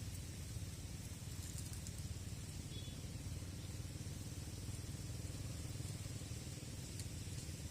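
Wind buffeting the microphone: a steady, uneven low rumble with a faint hiss above it.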